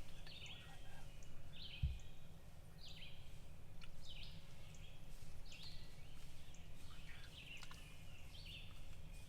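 Songbirds singing in the woods: short high phrases repeated about once a second, over a steady low rumble, with one sharp thump about two seconds in.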